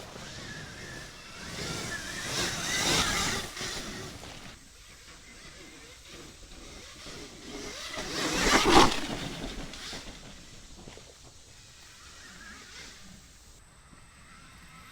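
Alta electric dirt bike passing by twice: a mostly noisy rush of tyres, chain and motor with no engine exhaust note, rising and fading each time, the second pass about eight seconds in and louder.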